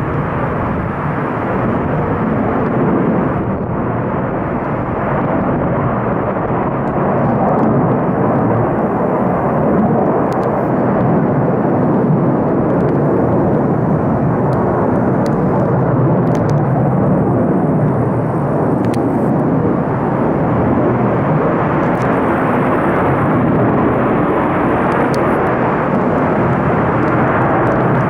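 Military fighter jet's engines making a tremendous, steady roar during takeoff, swelling slightly about a quarter of the way in.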